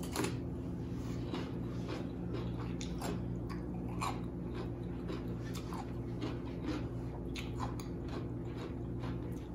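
Close-up chewing and crunching of raw cucumber slices, with irregular bites and chews throughout, over a steady low hum.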